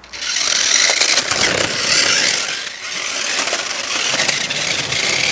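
Radio-controlled rally car driving, its motor whining over a steady hiss of tyre noise, easing briefly partway through.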